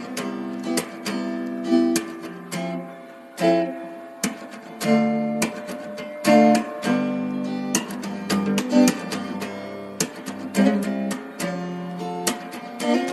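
Background music: acoustic guitar, strummed and plucked, with a steady run of notes.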